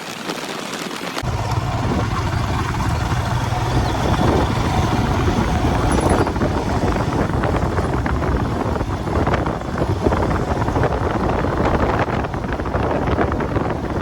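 A motorcycle on the move: engine and road noise with wind rushing over the microphone, and a heavy low rumble that sets in suddenly about a second in.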